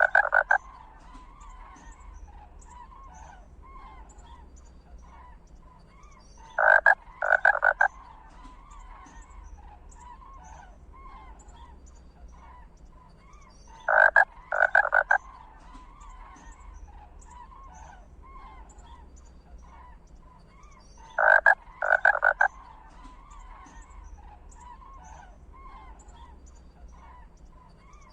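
Frog chorus: many small calls keep up a steady background, and a loud double croak comes back at even intervals of about seven seconds, four times.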